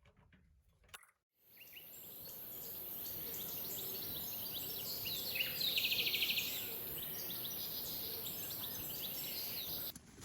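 Outdoor ambience that fades in: scattered bird chirps and a fast trill about halfway through, over a steady high hiss. It cuts off suddenly near the end.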